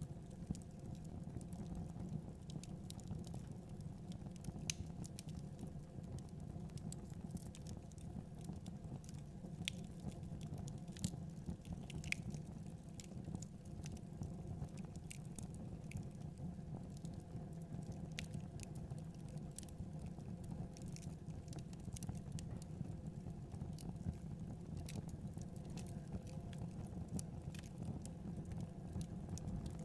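Wood fire crackling in a fireplace: a steady low rumble of flames with irregular sharp crackles and pops.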